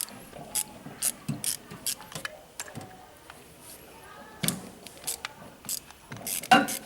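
Metal hand tools and parts of a Bosch starter motor clicking and knocking during disassembly, in a string of sharp, irregular clicks with a louder cluster near the end.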